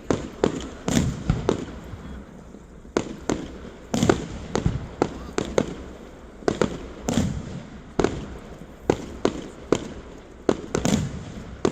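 Fireworks going off in quick, irregular succession: many sharp bangs, with several deeper booms among them.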